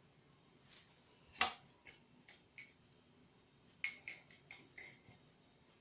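A series of light, sharp clicks and taps, about nine in all: the loudest about a second and a half in, a few more spaced out after it, then a quick run of five near the end.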